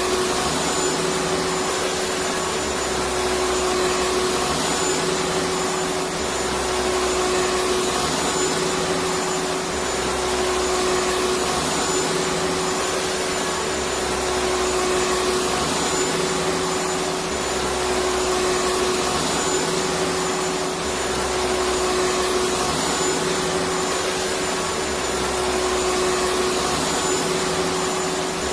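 Electric vacuum cleaner running steadily, a dense even rush of air with a constant motor whine. Underneath, a low hum comes and goes about every three seconds.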